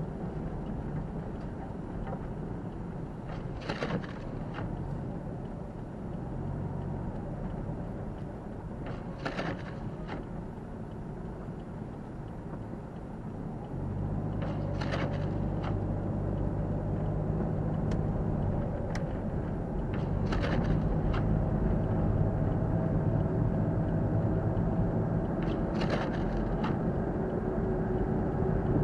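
Car engine and tyre noise heard from inside the cabin while driving on a snowy road: a steady low hum that gets louder about halfway through as the car speeds up. Short swishes come about every five to six seconds.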